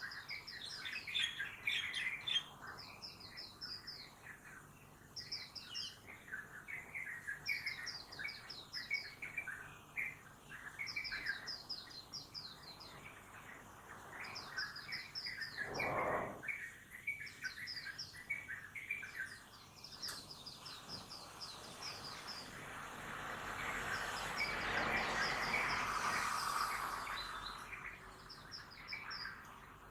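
Small birds chirping in quick repeated phrases over town background noise, with a short noise about halfway through. Near the end a passing vehicle swells up and fades away, the loudest sound here, as the birds fall quiet beneath it.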